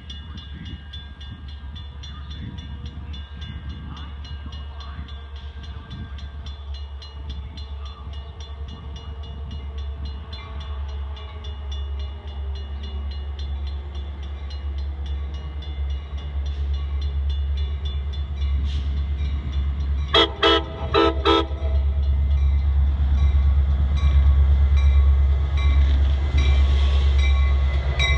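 Metra commuter train's diesel locomotive approaching and growing louder, giving a quick series of short horn blasts about twenty seconds in, then its engine and wheels rumbling close by as it passes. An even high ticking, about three a second, runs beneath.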